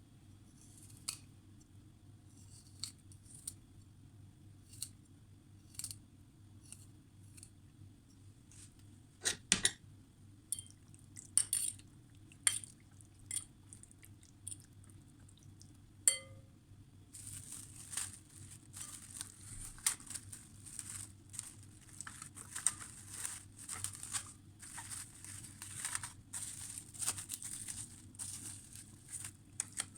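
Kitchen handling sounds: scattered sharp knocks and clicks, then a denser run of quick crackling and rustling from a little past halfway.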